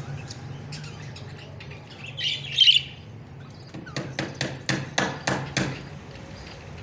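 A parrot gives one loud, harsh squawk about two and a half seconds in. About a second later comes a quick run of about eight sharp knocks, a few a second.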